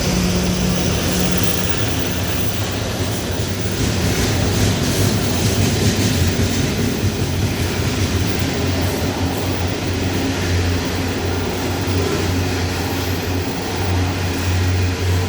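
Loaded coal train rolling past, the wagons giving a steady heavy rumble with a low hum and faint clicking of wheels over the rail joints.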